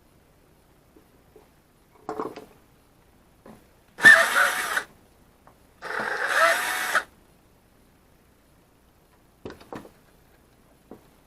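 Electric drill running in two short bursts of about a second each, its motor speed rising and falling, with a few small handling clicks before and after.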